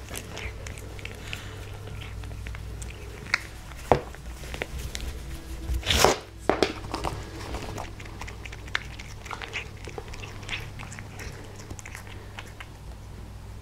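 A cat chewing and crunching dried catnip, with irregular small crackles and clicks and a louder burst of noise about six seconds in.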